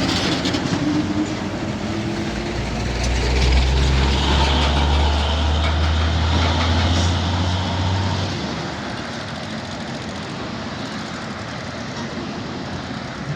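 Heavy truck engine running under load with a deep drone that grows louder about two and a half seconds in, holds, then eases off about eight seconds in, over steady road and engine noise.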